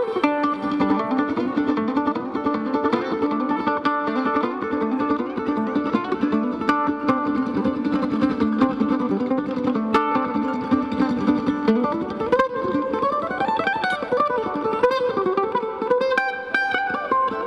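Mandolin solo played live: fast tremolo picking that holds a note for several seconds, then runs of picked notes that slide up and down in pitch about three-quarters of the way through.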